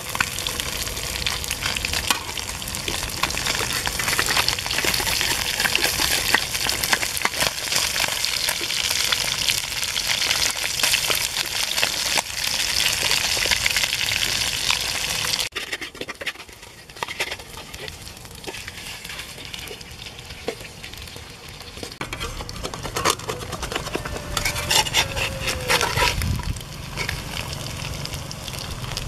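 Catfish pieces sizzling in hot oil in a steel wok over a wood fire, stirred with a metal spatula. The loud crackling sizzle cuts off suddenly about halfway through and gives way to quieter frying with the spatula clicking and scraping against the wok.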